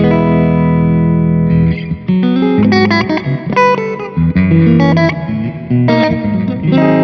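Squier Stratocaster electric guitar played through an amplifier. A chord rings out for about a second and a half, then gives way to a quick run of single lead notes.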